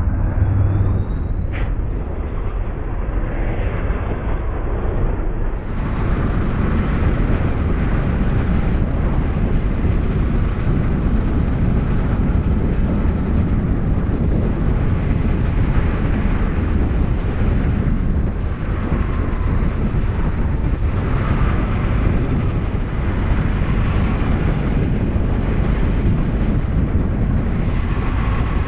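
Honda Rebel 300's single-cylinder engine running steadily at road speed, heard under heavy wind rush on the microphone.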